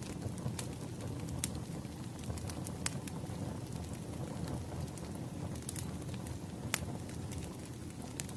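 Wood fire crackling: a steady low rumble with sharp pops at irregular intervals, a few of them louder than the rest.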